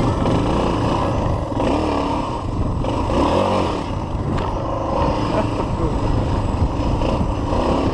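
A single-cylinder four-stroke dual-sport motorcycle engine being ridden off-road, its pitch rising and falling repeatedly as the throttle is opened and closed.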